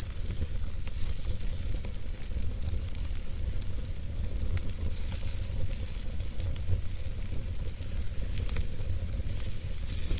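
Wood fire burning in a fireplace, crackling with many small scattered pops over a steady low rumble.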